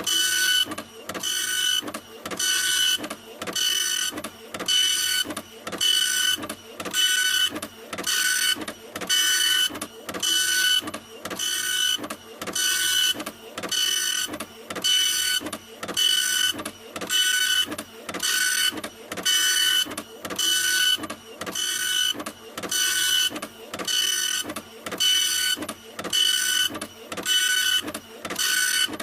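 Printer printing in a steady repeating rhythm, one pass a little over once a second, each pass carrying a high motor whine over a mechanical rattle, with short gaps between passes.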